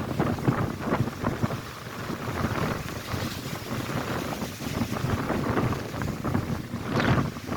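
Strong wind buffeting the microphone over lake waves crashing on the shore, with a louder rush near the end.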